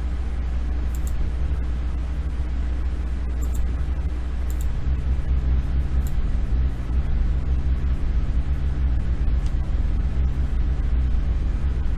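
Steady low rumble of background noise on the microphone, with a few faint computer mouse clicks.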